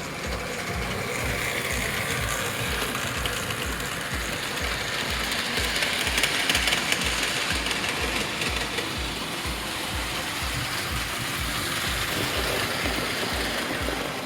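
American Flyer S-gauge 4-4-0 model steam locomotive running on its track, its motor and wheels whirring and clattering, swelling louder about six seconds in as it passes close. Background music with a steady low beat plays alongside.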